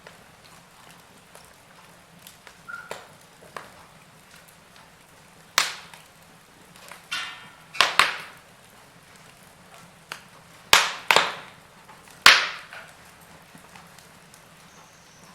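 Wood fire burning in a fireplace, crackling with sharp, irregular pops over a faint steady hiss. The loudest pops come in the second half.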